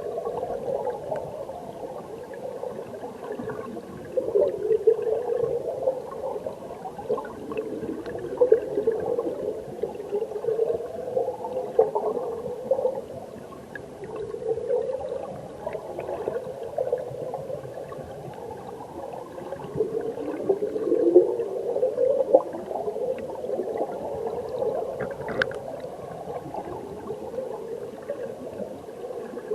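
Flowing valley-stream water heard underwater: a continuous muffled gurgling and bubbling of the current that swells and eases every few seconds.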